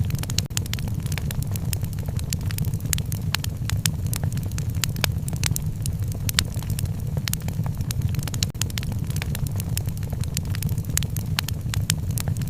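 Wood fire in a fireplace crackling, with many sharp irregular pops over a steady low rumble.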